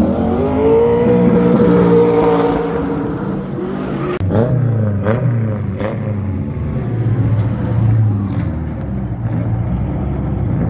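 Car engine revving: the pitch climbs and holds high for a couple of seconds, then three quick rev blips about a second apart, over a steady low engine rumble.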